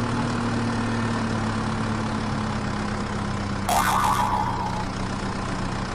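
Steady low engine-like hum, with a short sudden noise a little under four seconds in.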